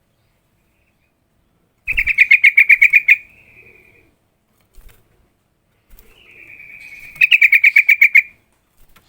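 Sooty-headed bulbul (trucukan) calling: two loud bursts of rapid chattering notes, about ten a second, some five seconds apart, with a softer drawn-out note between them.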